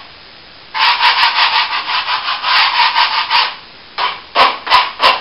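A hand tool rubbing back and forth over a plastered wall in quick rasping strokes, about four or five a second. The strokes pause briefly about three and a half seconds in, then start again.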